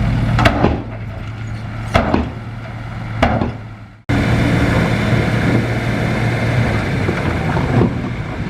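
Heavy diesel earthmoving machinery running steadily, with three sharp knocks in the first few seconds, each about a second and a half apart. The sound drops out for an instant about four seconds in, then the engine carries on.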